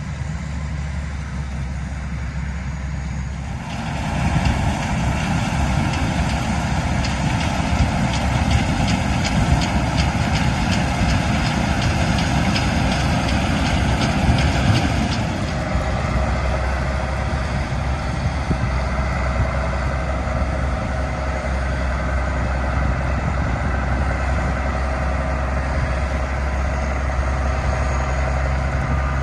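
Heavy diesel engine running steadily. About four seconds in a louder, rushing mechanical noise joins it and lasts some ten seconds before dropping back to the engine's steady hum.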